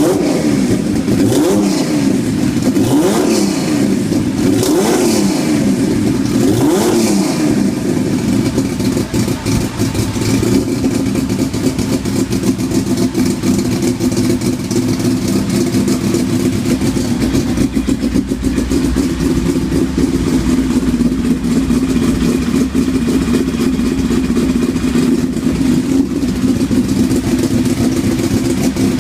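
Turbocharged Toyota 2JZ inline-six in a drag Celica, revved up and down about four times in the first eight seconds, then held at a steady rpm.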